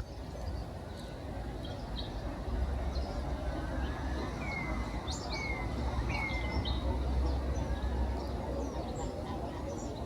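Several birds chirping and calling, with many short high chirps and three falling whistled notes around the middle, over a steady low rumble.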